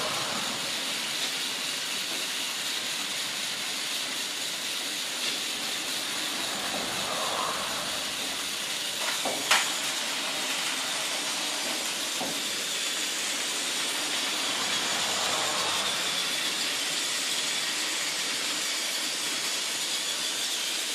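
Battery-powered Trackmaster toy locomotive running steadily along plastic track, its motor and wheels making a continuous hissing whir, with one sharp click about halfway through.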